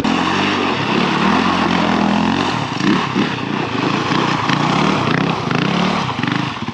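Honda dirt bike engine revving up and down again and again, its pitch rising and falling every second or so.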